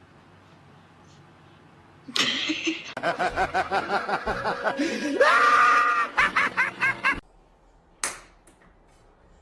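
A person laughing hard in quick repeated bursts, breaking into a high drawn-out shriek partway through, then cut off abruptly; a single sharp click follows.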